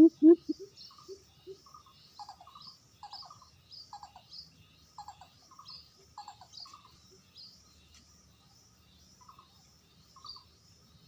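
A fast series of loud, low dove coos breaks off just after the start, followed by a few faint single coos. Through the rest, small birds chirp repeatedly: short notes, some high and thin, about once a second.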